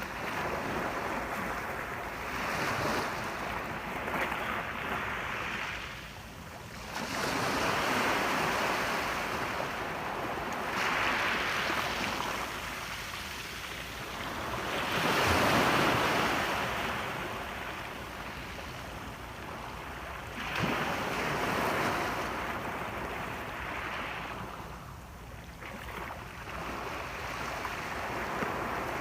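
Sea waves breaking and washing on the shore, the rush of surf swelling and ebbing every few seconds, with one bigger wave about halfway through.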